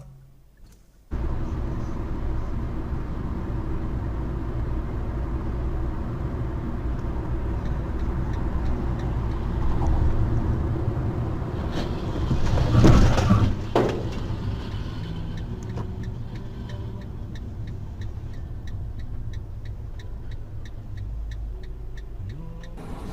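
Car driving, heard from a dashcam: a steady low road and engine rumble, with a louder rush of noise about twelve to fourteen seconds in and faint regular ticking in the later part.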